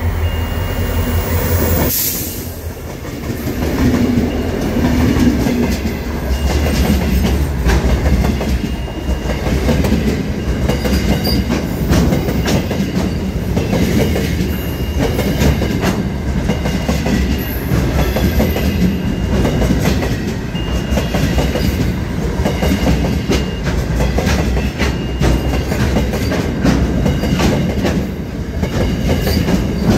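Aurizon grain train's hopper wagons rolling past close by: a heavy steady rumble with rapid clickety-clack of wheels over rail joints and a faint high squeal that comes and goes.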